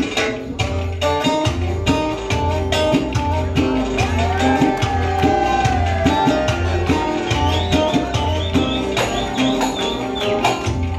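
Instrumental folk music: a plucked string instrument plays a fast melody over a steady, repeating bass beat, with no singing.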